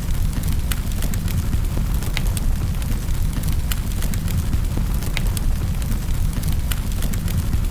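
Wood fire crackling in a fireplace: a steady low rumble of flame with frequent sharp pops and snaps at irregular intervals.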